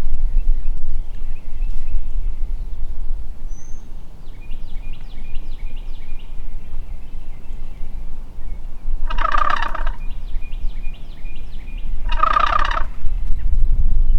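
Wild turkey gobbler gobbling twice, two short rattling gobbles about three seconds apart near the end.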